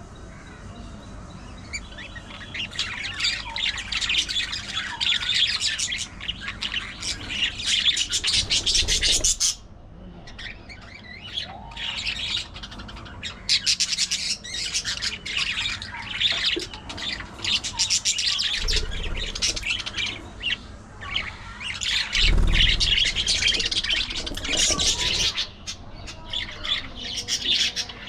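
Budgies chattering continuously in a fast, warbling stream of chirps and squawks. A few low thuds sound under the chatter.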